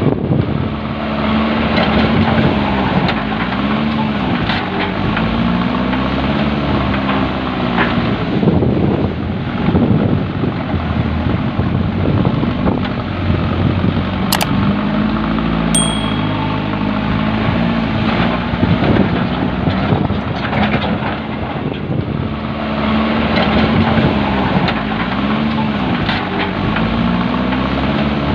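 JCB backhoe loader's diesel engine running, its pitch rising and falling over and over, over a steady rushing noise. Two brief sharp clicks come a little past the middle.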